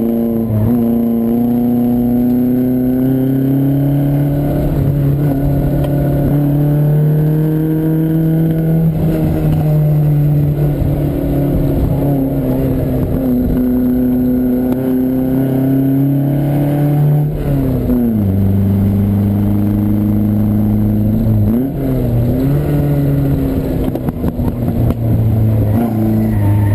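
Lancia Fulvia Rally S prototype's narrow-angle V4 engine heard on board, pulling hard with the revs swelling and easing. About two-thirds of the way through the revs drop sharply, then climb again.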